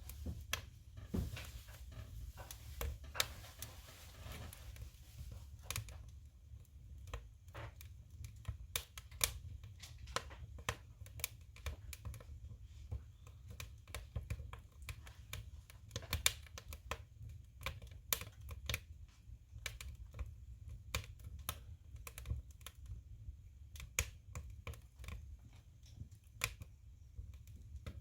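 Firewood burning in a stove: irregular sharp crackles and pops over a low steady rumble, with a soft hiss during the first few seconds.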